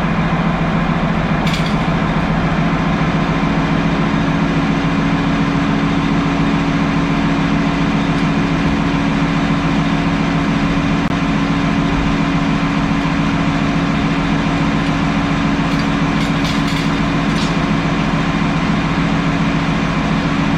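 A machine running steadily, a constant loud low hum with two held tones, with a few faint clicks near the start and towards the end.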